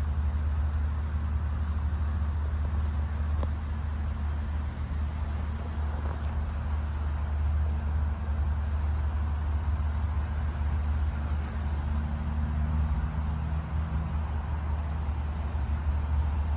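Road vehicle engine idling steadily: a constant low rumble with a faint hum over it.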